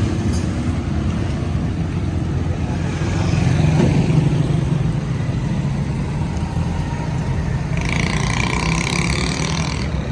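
A motor engine running steadily at a low pitch, swelling slightly about four seconds in. A higher-pitched noise joins it for about two seconds near the end.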